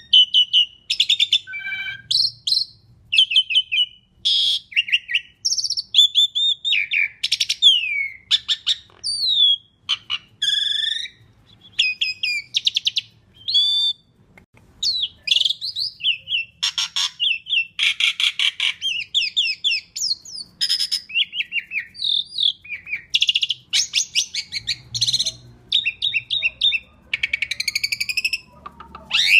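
Asian pied starling (jalak suren) singing energetically, a continuous varied song of quick whistles, sliding notes, rattling trills and harsh chattering phrases with hardly a pause between them.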